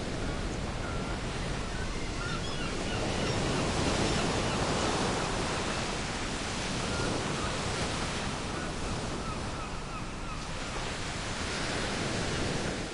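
Sea waves washing onto a shore in slow swells, with seagulls calling faintly in short cries in two spells, early and again past the middle.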